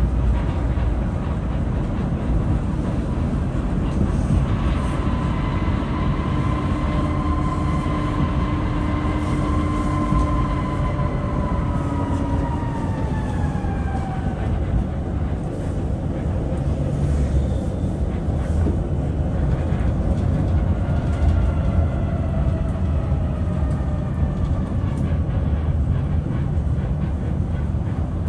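Tram running on its rails with a steady low rumble. A whine with several pitches comes in about four seconds in, holds, then falls in pitch around the middle. A second falling whine comes near the end.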